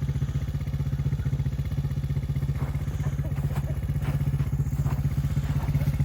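Four-wheeler (ATV) engine running steadily at low speed with an even exhaust pulse, and a few faint knocks around the middle.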